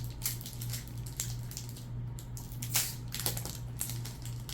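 Crinkling and crackling of a foil Pokémon card booster pack wrapper being opened and handled, in short irregular bursts over a steady low hum.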